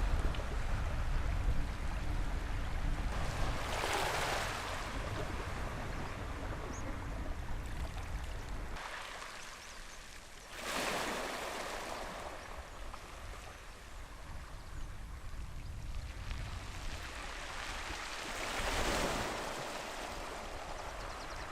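Waves washing on a shore with wind on the microphone: a steady rush that swells three times, several seconds apart, with a deep wind rumble underneath in the first half.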